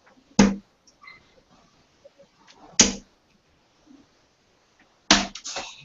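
Three darts thrown one after another, each striking the dartboard with a sharp thud, about two and a half seconds apart; the last hit is followed by a couple of smaller knocks.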